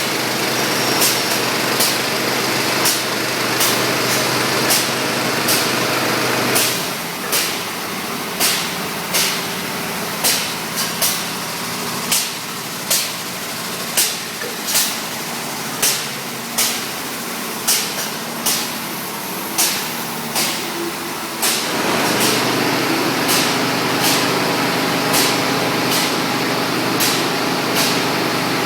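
Machinery running with a steady hum, punctuated by a sharp regular click about every three-quarters of a second; the low part of the hum drops away for a stretch in the middle, then returns.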